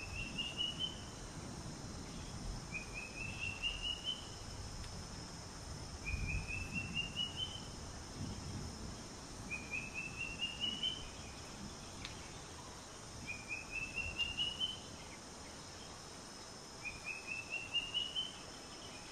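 A bird repeats a short song of quick notes rising in pitch, about every three and a half seconds, over a steady high insect drone.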